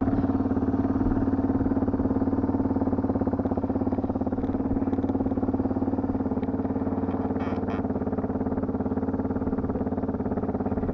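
Dirt bike engine idling steadily, with a few faint clicks about seven and a half seconds in.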